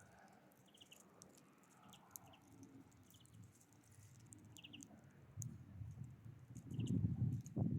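Small birds giving short, soft call notes, about six times. Faint clicks are scattered throughout, and a low rustling rumble builds over the last couple of seconds.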